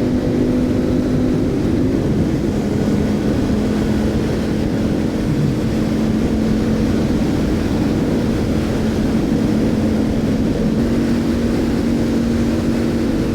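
Motorcycle engine running at highway cruising speed under a steady rush of wind and road noise. Its pitch drops a little about two seconds in, then holds steady.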